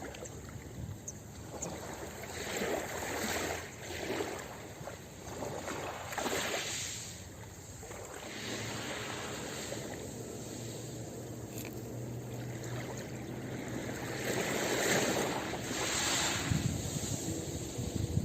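Ocean waves washing onto a beach: a steady hiss of surf that swells and eases several times, loudest about three quarters of the way through.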